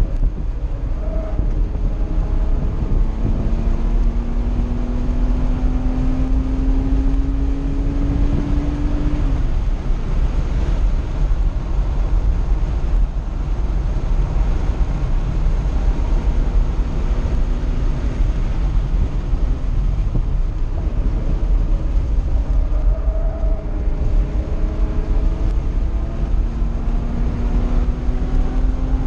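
1982 Porsche 911SC's air-cooled 3.0-litre flat-six, with an SSI header and Dansk two-in, two-out muffler, heard from inside the cabin at speed. Its pitch climbs steadily for several seconds, falls away, and climbs again near the end, over heavy wind and road rumble.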